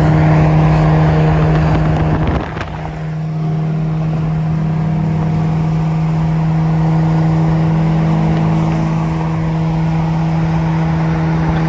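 Twin-turbo 3.0 V6 of an Infiniti Q50 running steadily at highway speed, heard from inside the cabin as an even engine and exhaust drone. The drone dips briefly about two and a half seconds in, then settles back to the same steady pitch.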